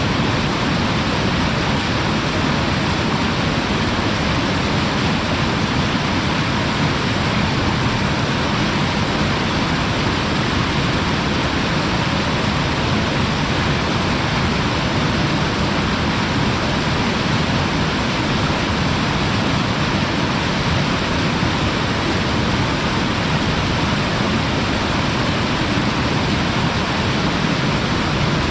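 Waterfall rushing steadily, heard from the lip where the water pours over: an even, unbroken wash of water noise.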